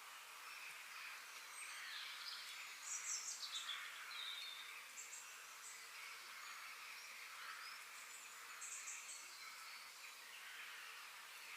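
A chorus of several birds chirping and singing over a steady outdoor hiss. A run of rapid, high chirps stands out about three seconds in, and another near nine seconds.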